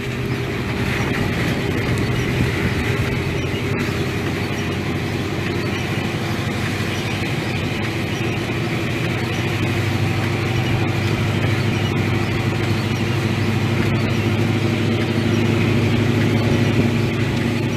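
Pickup truck running steadily while driving, its engine hum and road noise continuous and growing a little louder in the second half.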